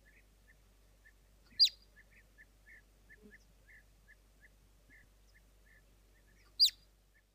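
Marmot alarm calls: two loud, sharp whistles about five seconds apart, each falling steeply in pitch. Faint short chirps repeat steadily, about three a second, beneath them.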